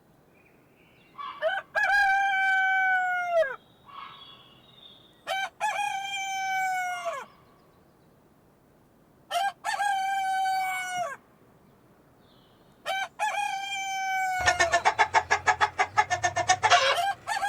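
Rooster crowing, cock-a-doodle-doo, about every four seconds: four full crows, each ending in a falling tail, and a fifth starting near the end. Before the last crow a loud rapid pulsing, about six beats a second, joins in for a couple of seconds.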